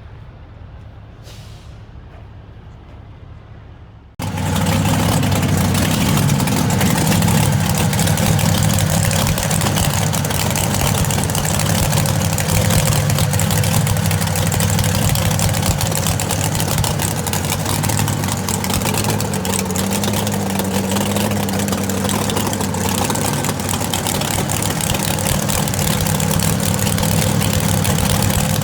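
A low rumble, then about four seconds in a monster truck engine comes in suddenly, loud and steady, running at idle with a strong hiss over its low drone.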